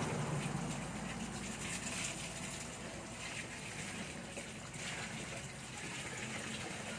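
Water running steadily, the hiss of a flow of water from a tap.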